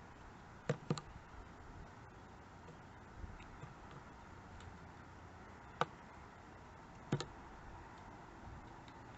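A few sharp, isolated knocks: a quick pair about a second in, then single ones near six and seven seconds, over a steady faint hiss. Pileated woodpecker pecking at wood.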